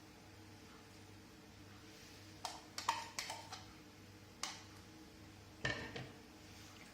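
Kitchen utensils knocking and clinking against a mixing bowl as shredded chicken is added: a quick run of light knocks, some ringing briefly, a couple of seconds in, then single knocks later.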